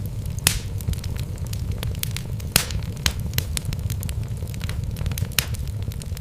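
Wood fire burning in a fireplace: a steady low rumble of the flames with irregular sharp crackles and pops from the logs, the loudest about half a second in and near the middle.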